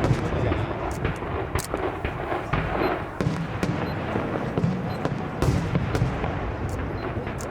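Aerial fireworks going off continuously: many sharp bangs and crackles in quick succession over a steady rumble of bursts.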